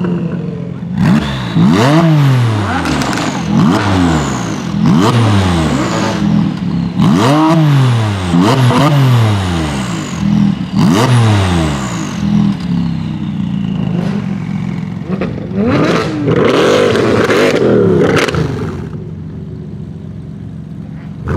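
A supercar engine being revved in short, repeated blips over a steady idle, its pitch shooting up and falling back each time, about once a second. Near the end comes a louder, longer burst of revving, then it settles back to idle.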